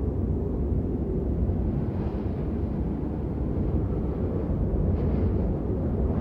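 Steady rain, an even, unbroken wash of noise weighted toward a low rumble.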